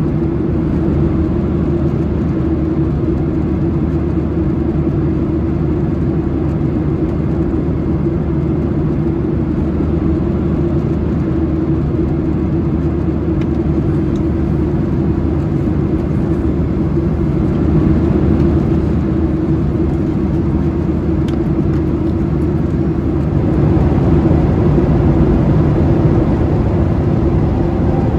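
Cabin noise aboard a Boeing 737-800: the steady drone of its CFM56 jet engines and airflow, with a constant hum over a deep rumble, swelling slightly twice in the second half.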